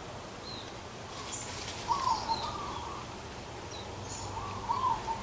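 Birds calling: a short warbled call twice, about 2 seconds and 4.7 seconds in, with thin, high chirps from other birds in between, over a steady low background hum.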